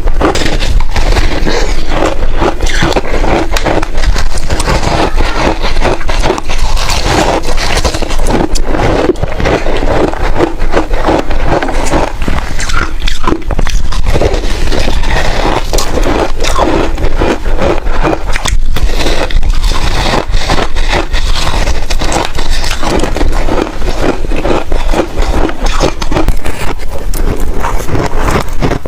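Close-miked crunching and chewing of freezer frost: a dense, continuous run of crisp, crackly crunches.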